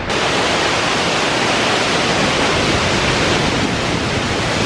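Steady, dense rushing roar of a large waterfall close by, spread evenly from low to very high pitches. It cuts in abruptly at the start.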